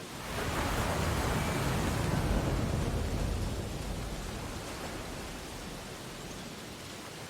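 Ocean waves on a beach: a wave breaks and washes in, swelling about half a second in and fading away over the next few seconds.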